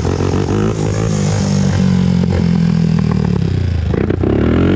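Honda TRX400EX quad's 400cc four-stroke single running under throttle, rising a little in pitch over the first couple of seconds and then holding steady. A brief clatter comes about four seconds in, as the engine note dips.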